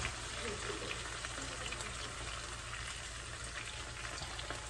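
Steak sizzling steadily in a frying pan, a soft even hiss with small scattered crackles of the fat.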